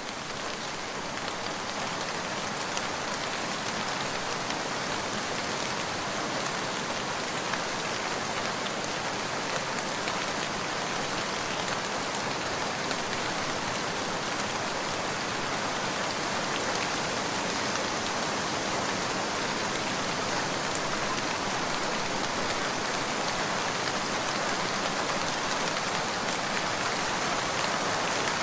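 Steady rain falling, an even hiss of drops that swells slowly louder across the stretch.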